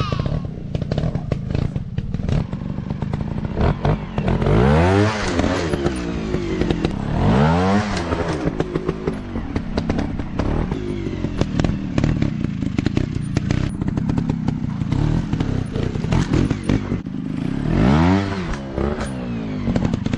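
Dirt bike engine running and revving hard three times, its pitch sweeping sharply up about five seconds in, again at seven and a half seconds, and near the end, with clattering and knocks throughout.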